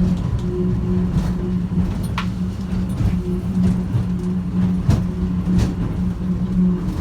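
Airport people-mover train running, heard from inside the car: a steady low electric hum with a fainter tone cutting in and out above it, and a few short knocks and rattles from the car.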